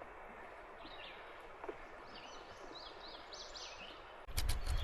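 A songbird singing a run of short high notes over a steady outdoor background hiss. Near the end a sudden loud low rumble with sharp clicks cuts in.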